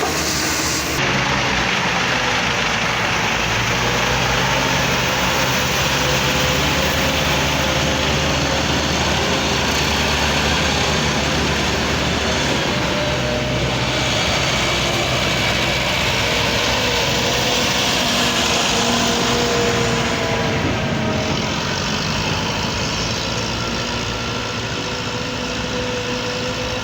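Heavy diesel engine of quarry machinery running steadily, with a faint wavering whine over the engine note.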